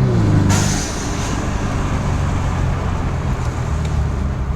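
Mercedes E300's turbocharged four-cylinder engine and exhaust, fitted with QTP exhaust cutouts, heard from inside the cabin while driving. The engine note drops in pitch at the start, a short hiss comes about half a second in, and then it settles into a steady, lower drone with road noise.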